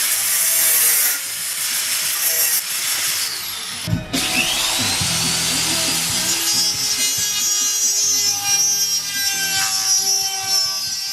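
Scraping, sawing-like noise of hand work, with music playing underneath. The noise breaks off abruptly about four seconds in.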